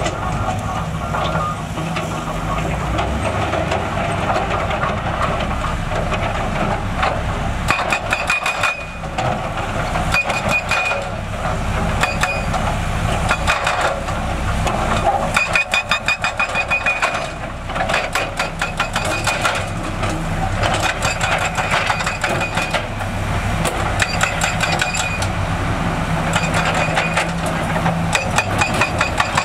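Diesel engines of heavy construction machinery running steadily, with repeated bursts of rapid metallic clanking and clinking.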